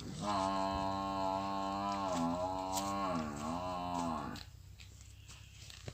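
A long, low horn-like tone made through two motorcycle silencers, held for about four seconds. Its pitch dips twice in the second half, then it stops abruptly.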